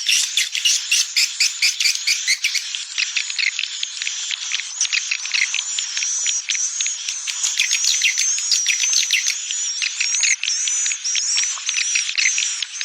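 Swiftlet calling sound: a recorded lure track of many swiftlets twittering, a dense, continuous mass of fast high chirps and clicks, played to draw swiftlets into a nesting house.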